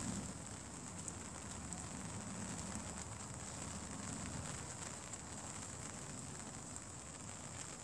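Light rain: a steady hiss with faint scattered crackle of drops, under a low rumble.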